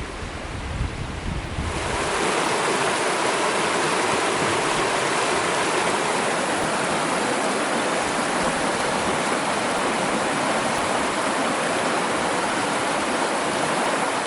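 Rushing river water: a loud, steady rush that starts abruptly about two seconds in, with a low rumble of wind on the microphone before it.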